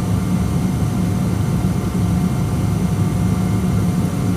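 Steady low drone inside the cabin of a Boeing 777-200 airliner on the ground, a constant hum with no change in pitch or level.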